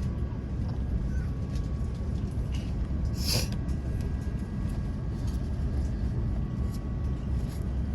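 Steady low rumble of airliner cabin noise while the plane is on the ground before takeoff, with a brief hiss about three seconds in.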